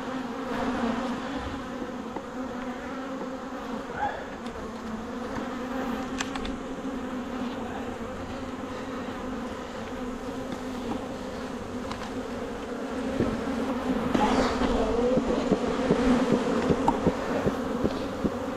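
Honeybees buzzing around an opened hive: a steady, dense hum of many bees, with a few faint knocks, growing louder about two thirds of the way through.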